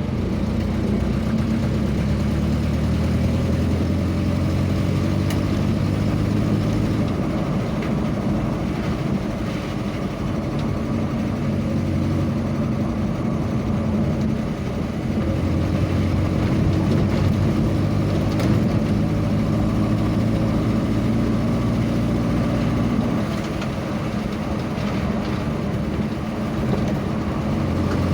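A vehicle engine running steadily on the road, a low drone over road noise whose pitch shifts slightly a few times.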